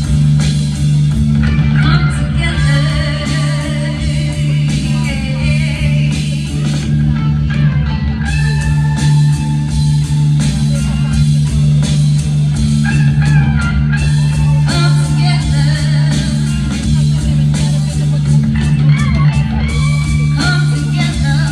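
Live band music with guitar over a steady, held bass line.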